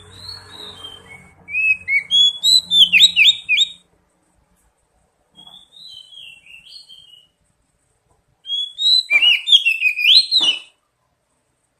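Oriental magpie-robin (kacer) singing in three bursts of quick, varied whistled phrases, the first and last loud and a quieter phrase between them.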